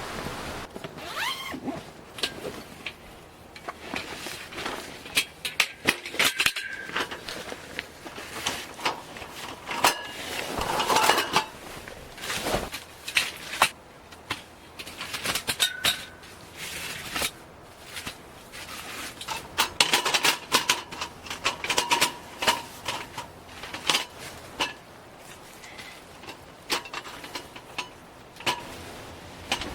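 Hand-handling of metal camping gear: a busy run of irregular clicks, knocks and clinks, some leaving a short metallic ring.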